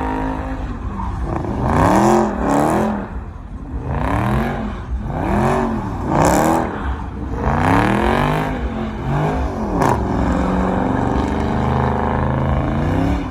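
Dodge Scat Pack's 392 Hemi V8 revved hard again and again, about eight climbs and drops in pitch. It then holds a steady high-rpm note for the last few seconds.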